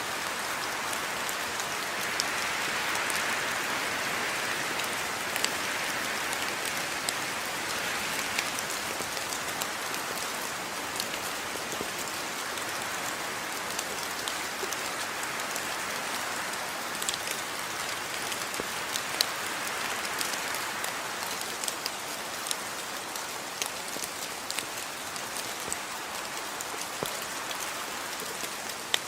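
Steady rain falling, with a continuous hiss and many individual drops ticking sharply on a hard surface.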